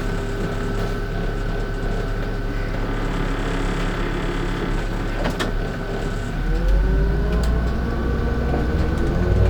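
Engine of a LiAZ-5292.65 bus heard from inside the cabin, running steadily, then rising in pitch and getting louder about six seconds in as the bus pulls away and accelerates. A thin steady whine sits over it, and there is a single click midway.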